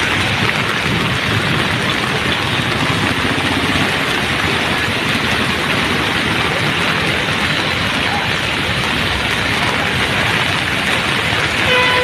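Heavy rain falling, a steady loud rush of water, with a brief vehicle horn at the very end.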